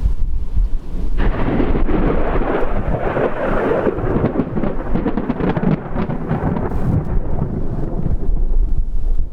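Thunder from a supercell: a sudden crack about a second in, rolling into a long rumble that slowly fades, over a steady low rumble of wind on the microphone.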